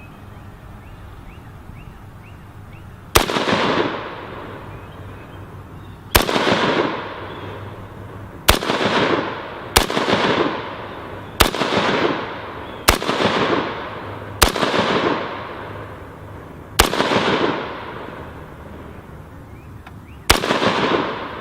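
AR-15 rifle fired one shot at a time: nine sharp cracks at uneven gaps of one to three and a half seconds, each trailing off in a long echo.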